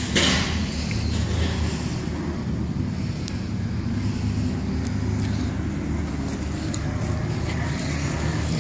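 An engine running steadily with a low drone, with a short rush of noise near the start.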